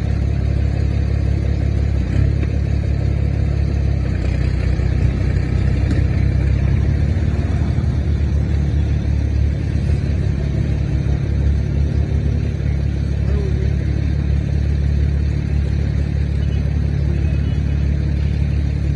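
Tractor engine running steadily under way, a deep even drone.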